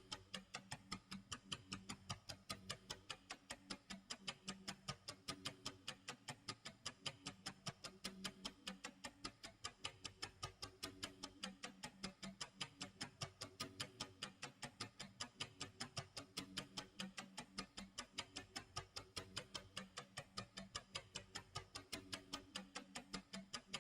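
Clock tick-tock sound effect: a steady, even run of short ticks, several a second.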